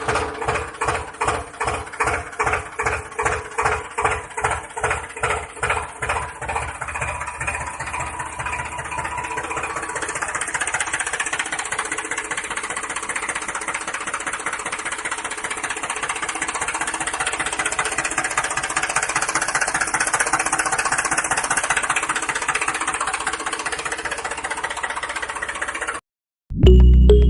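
An engine chugging in slow, even beats that quicken over several seconds and settle into a steady run, then cut off abruptly.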